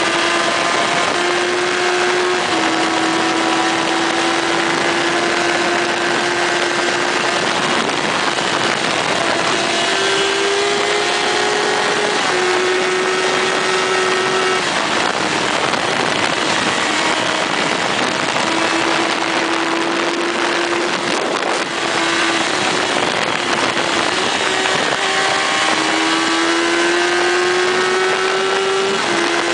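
Motorcycle engine running at road speed, its pitch climbing and dropping with throttle and gear changes, under heavy wind noise.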